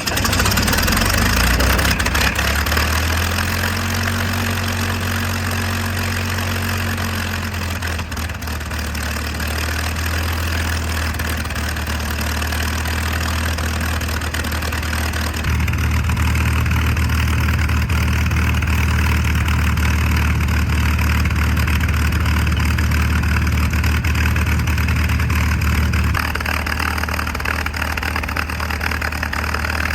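North American P-51 Mustang's Merlin V-12 engine running steadily at low power on the ground, a deep even engine note. Its note shifts about halfway through and again a few seconds before the end.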